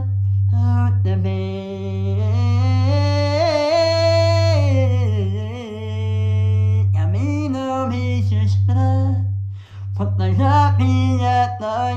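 Music: a solo voice singing a wavering, ornamented melody with vibrato over a low sustained bass note that restarts about every two seconds.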